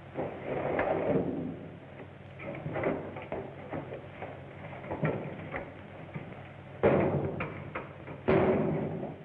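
A wooden door being forced open: scattered knocks and scrapes, then two heavy bangs about seven and eight seconds in.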